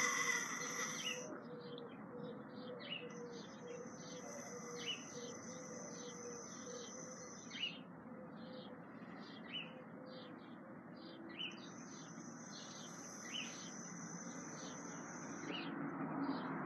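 Small songbirds chirping and singing, with short high chirps every second or two and two longer high trills. At the start, a louder high-pitched sound stops about a second in.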